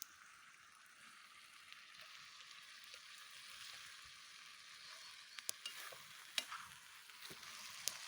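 Faint steady hiss with scattered sharp crackles and pops, swelling slightly in the second half.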